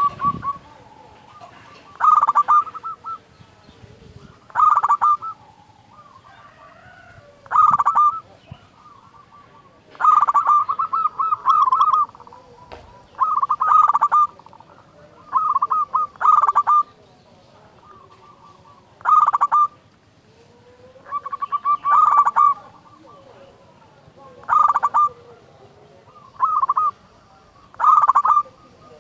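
Zebra dove (perkutut) singing loudly: short cooing phrases of rapid notes, repeated every two to three seconds, about a dozen times.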